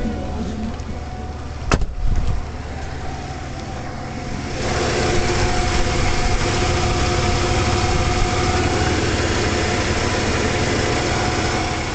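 1996 Ford F150's 300 cubic-inch (4.9 L) straight-six running steadily as it warms up from a cold start. A sharp click comes about two seconds in, and about four and a half seconds in the engine sound gets louder and stays louder.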